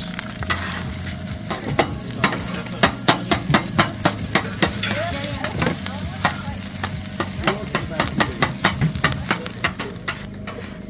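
Eggs frying in grease with a sizzling hiss, and a metal utensil clicking and scraping against the pan in a quick run of sharp taps, about two or three a second, stopping near the end.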